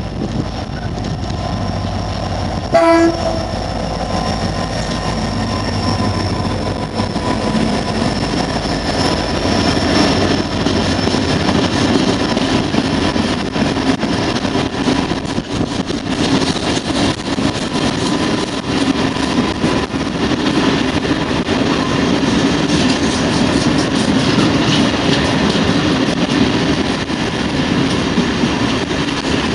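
Renfe class 333 diesel locomotive gives one short horn blast about three seconds in, then runs by hauling a train of tank wagons: a steady rumble of engine and wagons, with the wheels clicking over rail joints.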